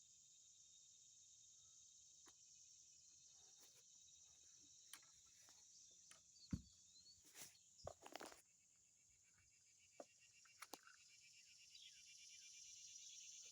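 Faint steady chorus of insects, high-pitched and pulsing, with a few soft clicks and knocks around the middle.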